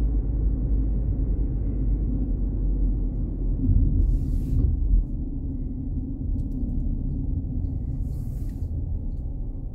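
Car driving, heard from inside the cabin: a steady low road and engine rumble, with two brief hisses about four and eight seconds in.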